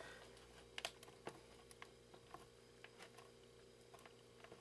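Faint, irregular small clicks and taps: a screwdriver working the screws out of the plastic housing of a video phone.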